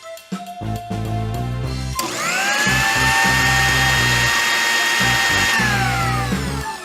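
Small electric motor whirring: it spins up about two seconds in, runs at a steady high whine for a few seconds, then winds down, over background music.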